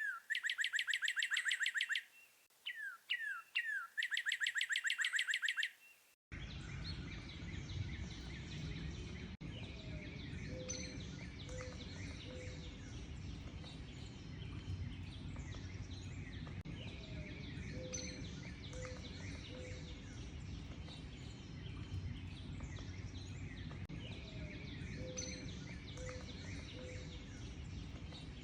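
Songbird singing loud and clear: twice, a few quick down-slurred notes run into a fast trill. About six seconds in it cuts to a noisier outdoor bird chorus over a steady rumbling background, with distant chirps and a low three-note call repeated about every seven seconds.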